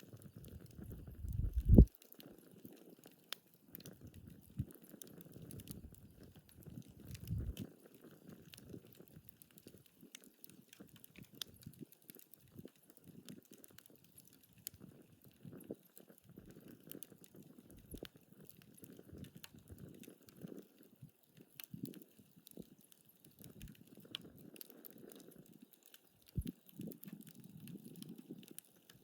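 Wood fire crackling in a fire pit, with scattered sharp pops and soft low rumbling between them; a louder low thump about two seconds in.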